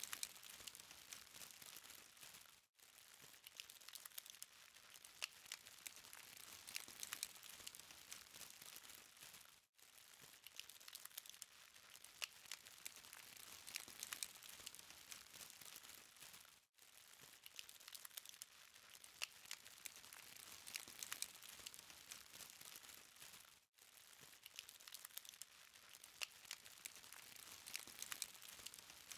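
Charcoal fire crackling faintly: a dense patter of tiny pops and ticks over a soft hiss, broken by a brief gap about every seven seconds.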